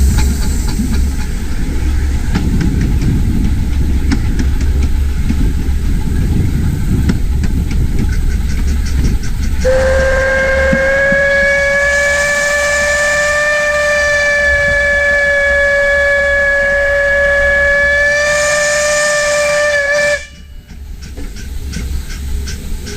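A 15-inch gauge steam locomotive's whistle sounds one long, steady blast of about ten seconds, starting about ten seconds in and cutting off sharply. Underneath it, the train runs with a low rumble.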